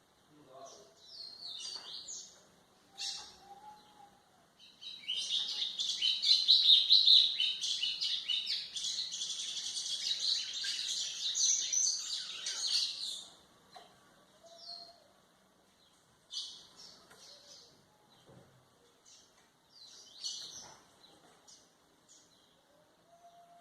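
White-throated seedeater (golinha) singing: a few short phrases, then a long fast run of song from about five seconds in to about thirteen seconds, then short phrases again.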